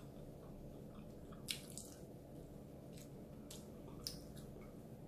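Faint wet chewing and mouth smacks of someone eating a soft vegetable stew with her fingers, a few short smacks standing out, the clearest about one and a half and four seconds in.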